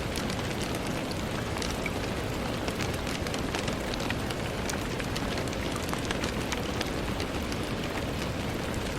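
Steady rain with many small drops tapping irregularly against a window pane, over an even wash of falling rain.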